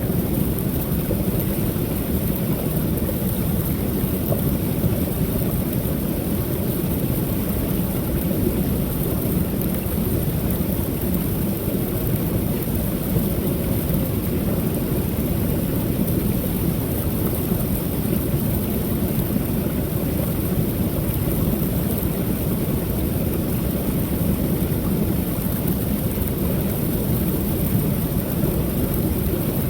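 Creek waterfall pouring steadily: a constant, deep rush of falling water, with a steady high hiss above it.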